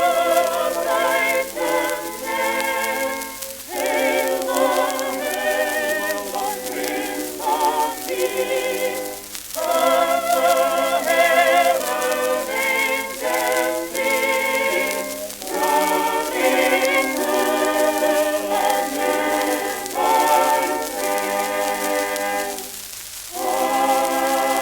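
An early acoustic-era shellac record of holiday music playing: several voices or instruments holding notes together with a wavering vibrato, in phrases broken by short pauses, with a longer pause near the end. The sound is thin, with no bass, as is typical of recordings from the early 1900s.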